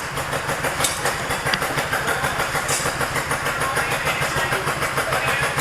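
Small petrol engine running at a steady idle with a fast, even beat.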